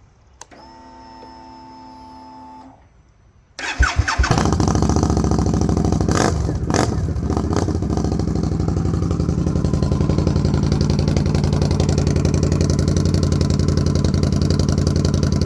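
A steady hum for about two seconds as the ignition comes on, typical of fuel pump priming. Then the 2018 Indian Scout's 1133 cc V-twin cranks, catches about four seconds in, and idles steadily through an aftermarket Dirty Bird Concepts exhaust, running without a tuner.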